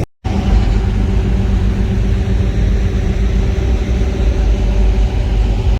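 Car engine running steadily with a low exhaust rumble, holding an even pitch throughout.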